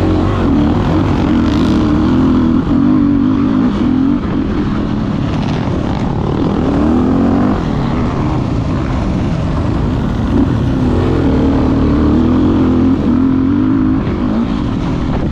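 Motocross dirt bike engine being ridden hard, its pitch rising and falling again and again as the throttle is worked, over a steady low rumble.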